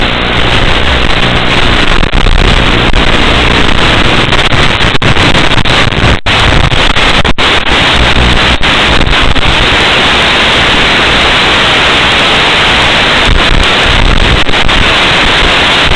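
Loud, steady hiss of radio static recorded by the FPV goggles' receiver, with a few brief dropouts in the middle.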